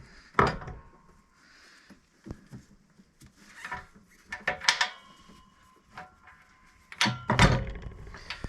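Irregular metal clunks and knocks of an A/C compressor and its mounting hardware being handled into place, a few strikes leaving a brief metallic ring; the heaviest thud comes about seven seconds in.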